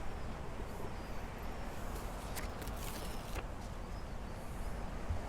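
Quiet outdoor seaside ambience: a steady low rumble and hiss of wind and distant water, with a few faint clicks around the middle.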